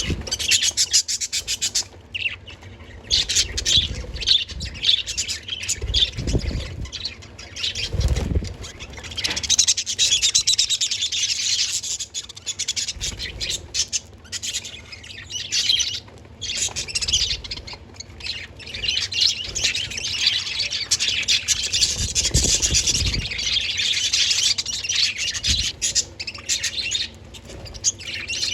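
Budgerigars chirping and warbling together in a continuous busy chatter, with a few low thuds.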